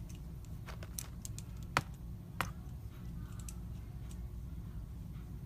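A few scattered light clicks and taps over a steady low hum of room noise, the sharpest two close together a little before the middle.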